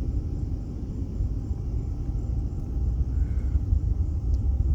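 Low, steady rumble of a distant SpaceX rocket launch, growing slightly stronger about three seconds in.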